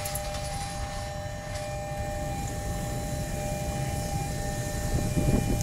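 Low rumble of a passenger train's coaches rolling away over the track, with a steady two-note tone running through it. Near the end a louder low rumble swells up.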